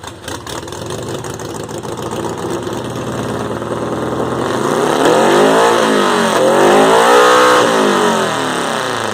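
Volkswagen engine revving loud: the revs build over the first few seconds, then climb high twice with a brief dip between and fall away near the end.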